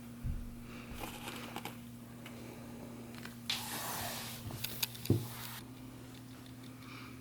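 Irregular soft knocks and light taps, with a brief rustle and one sharper knock about five seconds in, over a steady low electrical hum. This is the knocking that the owner of the kittens finds mysterious and cannot place.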